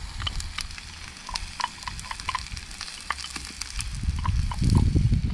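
Vegetables sizzling and crackling in a hot wok, freshly doused with olive oil mixed with spices, with many small pops and clicks. A low rumble grows louder about four seconds in.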